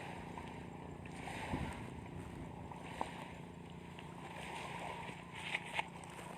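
Steady outdoor background: a low, even hum under a noisy hiss, with a few brief faint knocks about a second and a half in, at three seconds, and twice near the end.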